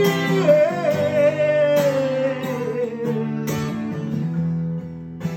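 Acoustic guitar strummed in chords while a voice holds one long, wavering sung note without words. The note rises early on and fades about four seconds in, leaving the guitar.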